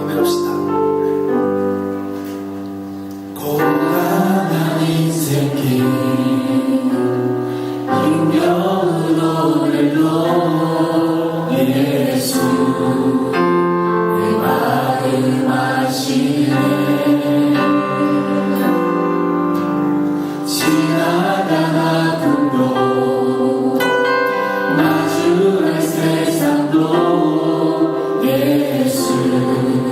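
Congregation singing a worship song together with musical accompaniment. The voices come in about three and a half seconds in, after a held chord.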